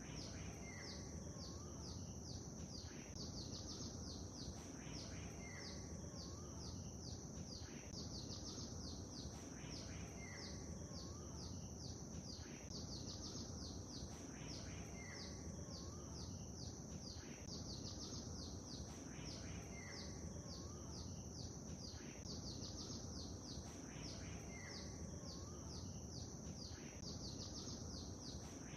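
Faint nature ambience: small birds chirping in quick high strokes over a steady low rush of noise, with a chirping phrase that repeats about every three seconds.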